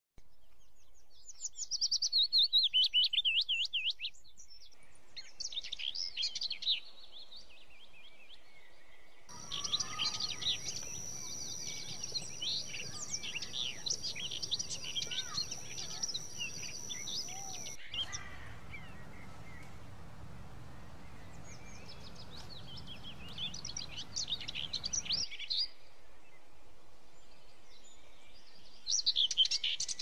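Songbirds singing: high, quick warbling chirps and trills in several separate passages. The background hiss changes abruptly between them, and a steady high whine runs under the singing through the middle.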